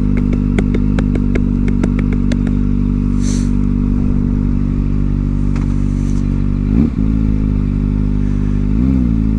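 Kawasaki ZX-4R's inline-four engine with an aftermarket exhaust idling steadily in neutral, with two short throttle blips about seven and nine seconds in. A quick run of clicks sounds during the first two seconds or so.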